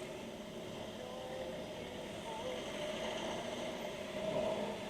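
Motorcycle running steadily at speed, heard through a helmet intercom microphone: a steady engine hum over even road noise.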